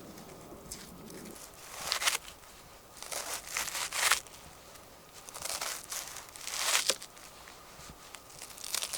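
An onion being sliced with a knife: several crunchy, tearing strokes through the onion, a second or so apart.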